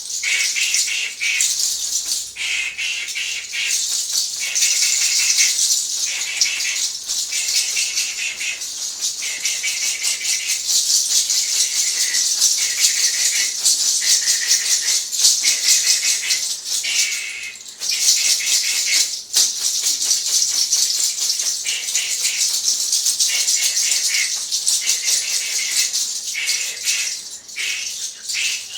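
A bundle of fresh herbs is swept and shaken over a person in quick strokes, the leaves rustling and swishing almost without a break. There is a short pause a little after halfway.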